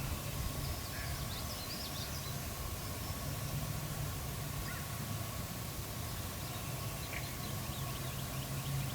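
Outdoor quiet with small songbirds chirping briefly, a few high calls near the start and again near the end, over a steady low hum that swells and fades.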